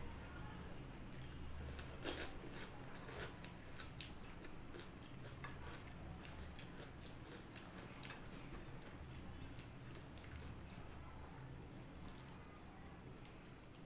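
Quiet eating: soft chewing and wet, squishy mouth sounds from a mouthful of rice and moong dal, with scattered small clicks, a little busier in the first few seconds, over a faint steady low hum.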